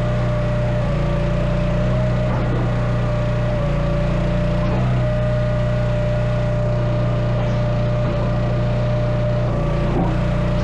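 Gas-engine log splitter running steadily, with a constant whine above the engine hum.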